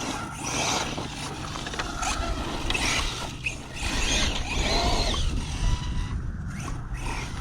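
Arrma Mojave 6S RC truck driving hard through grass: its brushless motor whines up and down with the throttle, over drivetrain clatter and the tires churning the grass. A whine rises and falls about four to five seconds in.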